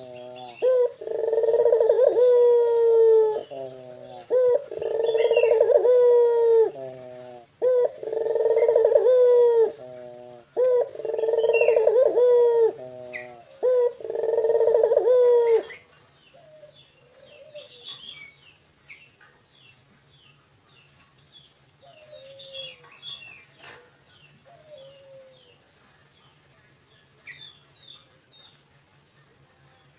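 A puter (domestic ring dove) cooing in a big, loud, resonant voice: about five long coos, each sliding down in pitch, over the first fifteen seconds. After that it stops, leaving only faint short chirps from other birds.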